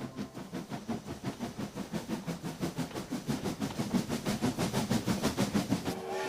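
Large steam locomotive chuffing fast and steadily, about five exhaust beats a second, with steam hiss.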